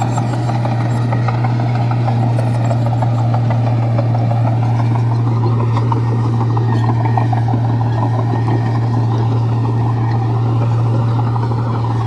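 Komatsu bulldozer's diesel engine running steadily: a loud, constant low drone with a busy clatter above it.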